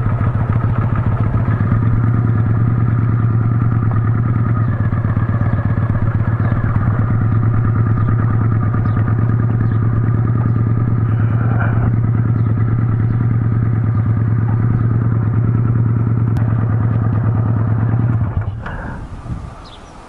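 Motorcycle engine idling steadily at an unchanging pitch, then switched off about eighteen seconds in, the sound dying away quickly.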